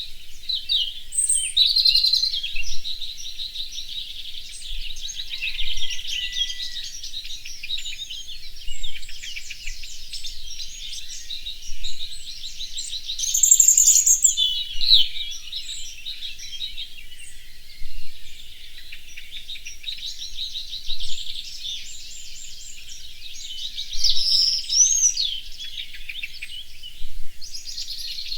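A dense chorus of songbirds singing, many voices overlapping in rapid trills and chirps, with a louder, higher burst of song about halfway through.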